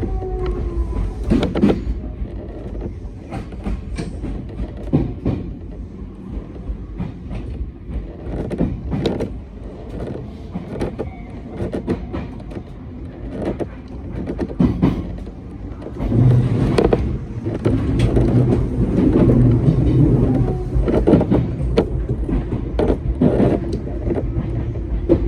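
Hakone Tozan Railway train running along the track: a steady rumble with irregular clicks and knocks from the wheels and car. It grows louder about two-thirds of the way through, and a low steady drone joins it.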